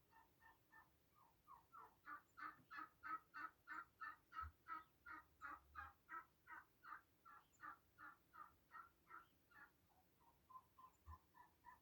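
Domestic fowl calling: a long, unbroken run of short, harsh repeated notes, about three a second, that grows louder about two seconds in and eases off near the end.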